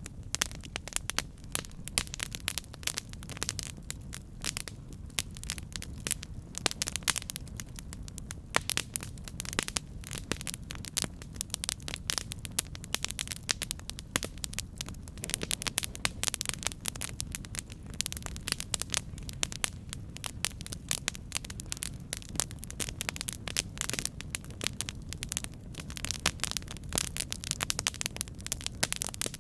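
Wood fire burning with dense, irregular crackles and pops over a steady low rumble of the flames.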